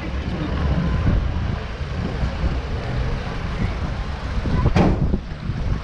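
Wind buffeting the microphone, an uneven low rumble, with a single sharp knock near the end.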